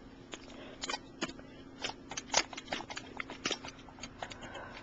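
Irregular light clicks and taps, like small hard objects being handled or set down, about two to four a second, over a faint steady hum.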